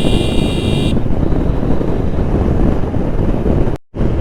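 Heavy wind buffeting on the microphone of a helmet camera on a moving motorcycle, a steady low rumble. A brief high steady tone sounds over it for about the first second, and the sound cuts out completely for a moment near the end.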